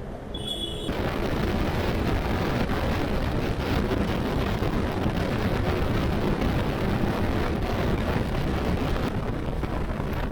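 Wind rushing and buffeting over the microphone on a moving motorcycle, a dense steady roar of air and road noise that comes in abruptly about a second in. A brief high tone sounds just before it.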